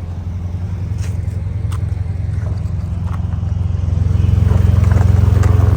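Ford F-150's 3.5-litre EcoBoost twin-turbo V6 idling through an aftermarket exhaust, heard close under the driver's side, with a slight exhaust leak at a loose joint. The rumble grows louder about four seconds in.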